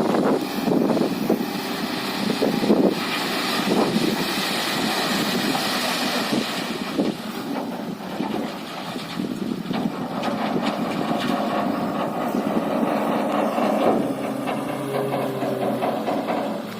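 Diesel engine of a JCB backhoe loader running steadily while it works, with scattered short knocks and clanks. The level drops near the end.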